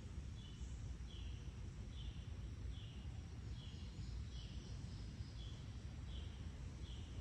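A bird chirping over and over, one short note about every three-quarters of a second, over a faint steady low rumble of outdoor air.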